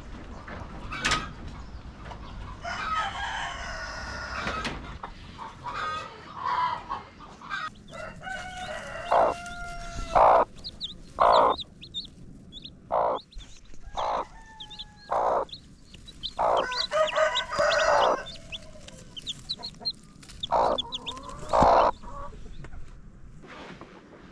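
Chickens clucking in a run of short, loud calls, with a rooster crowing among them.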